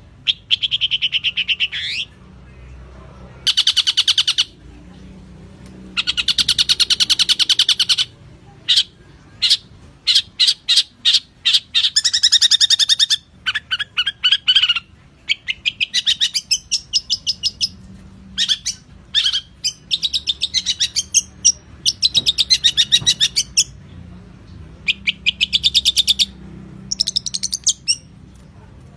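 Long-tailed shrike (cendet) singing a champion-style 'masteran' song in a run of bursts of rapid, chattering trilled notes, each burst lasting about a second or two and separated by short pauses.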